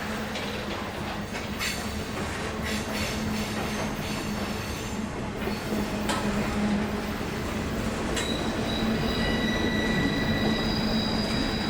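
Freight train rolling by: a steady low diesel hum, with wheels clicking over the rail joints in the first few seconds. From about eight seconds in, a high steady wheel squeal joins it and runs on.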